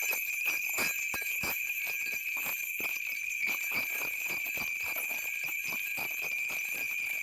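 A cluster of small bells, likely a shaman's ritual bells, jingling steadily with many small, irregular strikes over a ringing tone.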